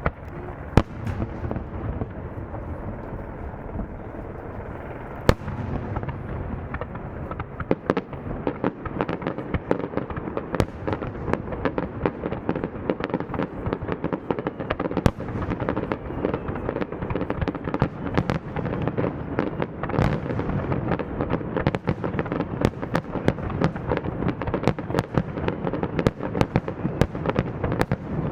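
Aerial fireworks display: a continuous rumble of shell bursts with sharp cracks and bangs, a few single loud reports in the first seconds, then the bangs coming thick and fast from about six seconds in.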